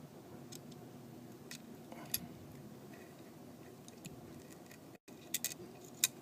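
Scattered light clicks and ticks of small repair tools against the parts of an iPhone 4S being disassembled, over a faint steady hum. The sharpest click comes about two seconds in, and a few more come close together near the end.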